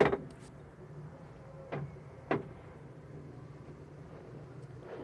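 Three sharp knocks, the first at the start and much the loudest, the other two close together a couple of seconds later, over a low steady hum.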